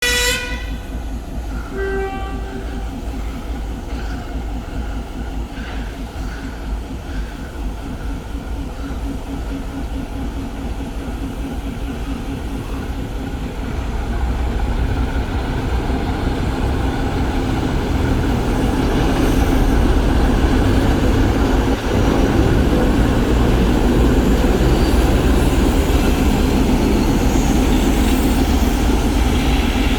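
ChME3 diesel shunting locomotive blowing a short blast on its typhon horn at the start and a brief second toot about two seconds in, then its six-cylinder diesel engine running with a low throbbing drone that grows louder about halfway through and again a few seconds later.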